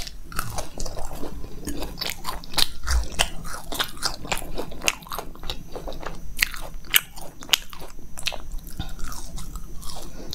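A person biting and chewing crisp jalebi: irregular crunches and clicks of the sweet breaking up in the mouth.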